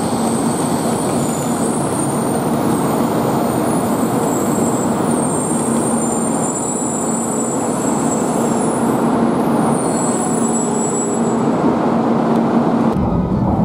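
N700-series Shinkansen train pulling out of a station platform: a steady rushing run noise with a steady hum. Near the end the sound switches abruptly to a deeper rumble.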